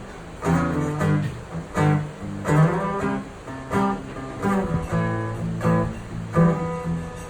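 Acoustic guitar strummed in a steady rhythm, chords ringing between strokes: the instrumental intro to a song, before the vocals come in.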